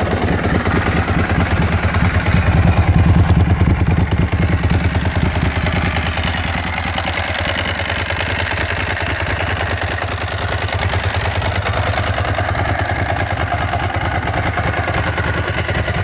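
2006 Ducati 749S's L-twin engine idling just after a start. It runs a little louder for a couple of seconds near the start, then settles to a steady idle.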